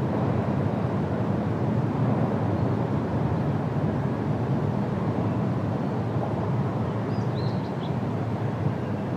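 Steady low outdoor rumble, with a few brief high chirps about seven seconds in.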